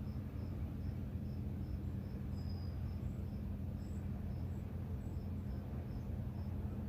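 Crickets chirping in a steady rhythm of about two or three chirps a second, with a second, higher chirping now and then. Under it runs a steady low rumble.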